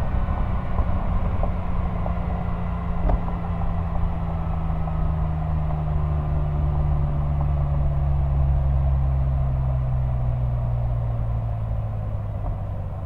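Exhaust of a 1999 Porsche 911 Carrera 996's 3.4-litre flat-six, picked up close to the tailpipe while driving, with road and wind noise. The engine note falls slowly and steadily as the revs drop, and there is a single brief click about three seconds in.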